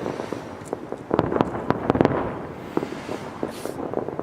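Aerial fireworks shells bursting in a rapid run of bangs and pops, densest between about one and two seconds in, with a brief high hiss near the end.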